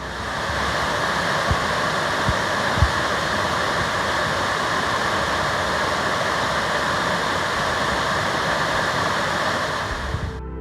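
Waterfall pouring into a pool, a steady, loud rush of falling water, with a few brief low bumps in the first three seconds.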